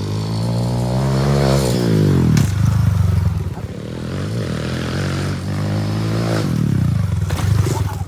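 Kawasaki KLX small dirt bike's single-cylinder four-stroke engine running through a Pro Circuit aftermarket exhaust, blipped twice: the pitch rises and falls back to idle about a second in, and again, less high, about six seconds in.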